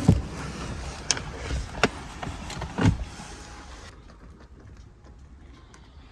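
Inside a stopped car: a few sharp clicks and knocks over a low steady rumble, the heaviest one about three seconds in, then it goes much quieter.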